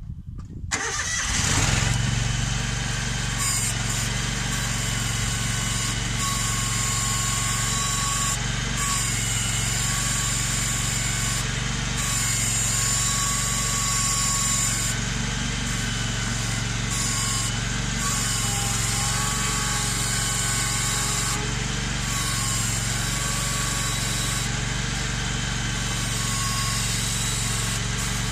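Ventrac compact tractor's engine starting about a second in, then running steadily and loudly.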